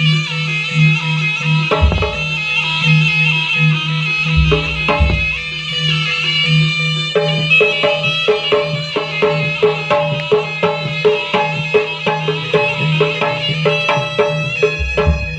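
Jaranan gamelan music: a shrill reed slompret plays a wavering melody over kendang drumming and gong-chime percussion. A steady pulsing low tone runs beneath it, and a few deep drum strokes come near the start, in the middle and at the end. From about halfway through, the percussion settles into an even, quick beat.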